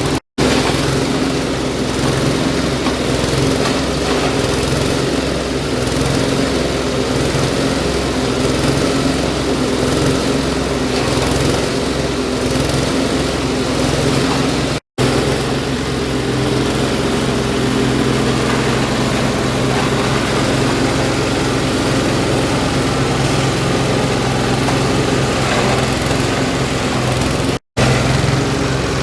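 Engine of a leaf-and-twig chopper machine running steadily, broken by three very short gaps of silence.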